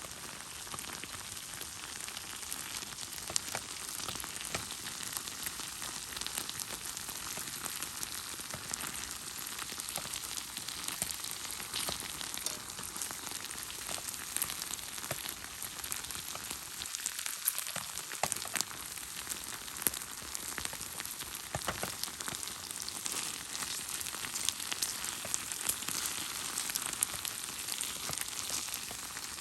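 Pork and kimchi sizzling in a frying pan over a campfire: a steady high hiss dotted with many small pops and crackles.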